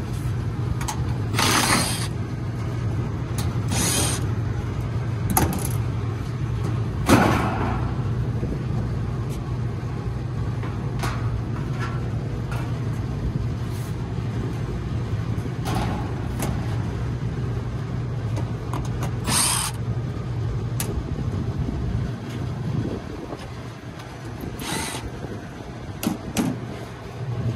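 Steady low hum of running rooftop HVAC equipment, with scattered sharp clicks and knocks as a condensing unit's panel and wiring are handled.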